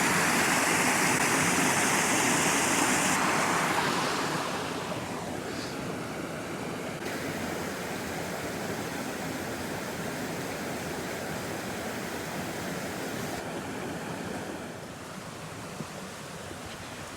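Rushing water of a partly frozen creek, a steady rush that is loudest for the first few seconds, then drops in level in steps about five seconds in and again near the end.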